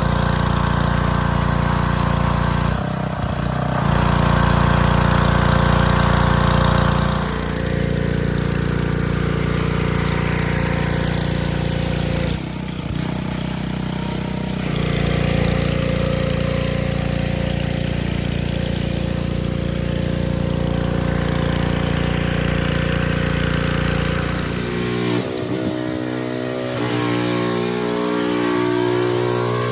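Small gasoline engine of a pressure washer running steadily under load, with a few brief breaks in the sound. Near the end its pitch changes and becomes uneven.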